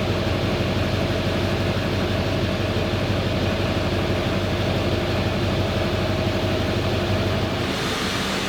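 Plow truck's engine idling steadily, with a brief rush of hiss near the end.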